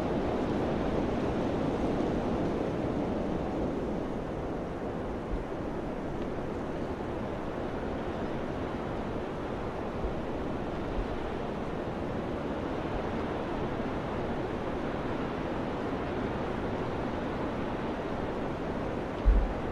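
Wind blowing as a steady rush that eases slightly a few seconds in. A few low thumps are heard, the loudest near the end.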